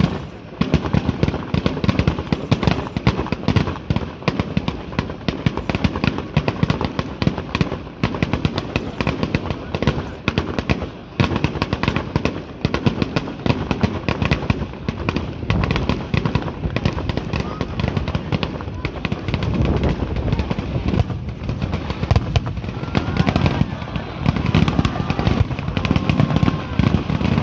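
Star mine fireworks barrage: a rapid, unbroken string of shell bursts and crackling, many reports a second with no pauses.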